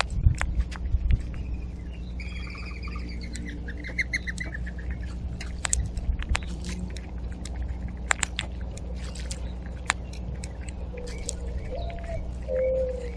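Backyard birds at a feeder: a short trilled call a couple of seconds in, scattered sharp clicks and taps throughout, and low mourning dove coos starting near the end.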